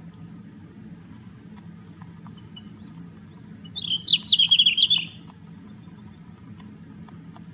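A small songbird gives one quick chattering phrase of high, falling notes lasting about a second, roughly midway through, over a faint steady low hum.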